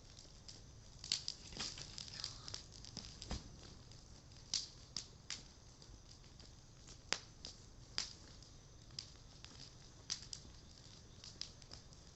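Bonfire of Japanese cedar (sugi) timber crackling, with irregular sharp pops; the loudest come about a second in and around seven seconds in.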